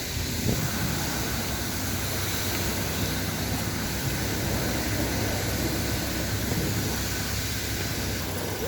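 Car-wash spray equipment running, a steady hiss over a low hum.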